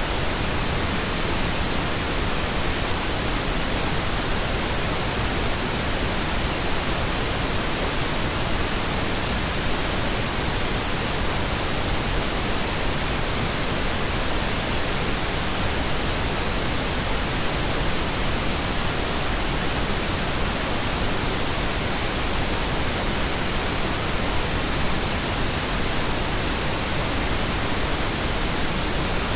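Steady pink noise: an even, unchanging hiss spread across the whole range of pitch, with no breaks or events.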